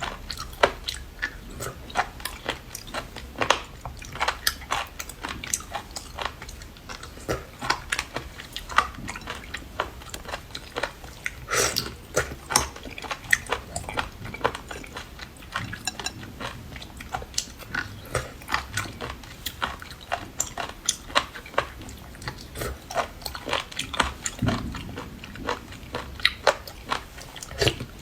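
Close-miked chewing and biting as a person eats seafood: a steady run of irregular sharp clicks and crunches, several a second, with no speech.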